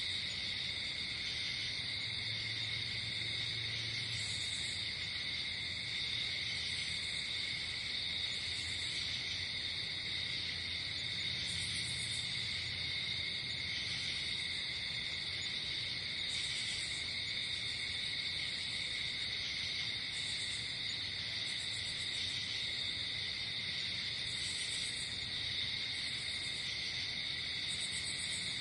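Night insect chorus, crickets trilling in a steady, unbroken high shrill, with a higher-pitched insect chirping in short spells every second or two.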